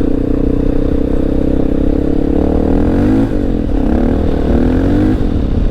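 Honda XR650L's single-cylinder four-stroke engine running steadily, then its revs rising and falling several times from about two and a half seconds in.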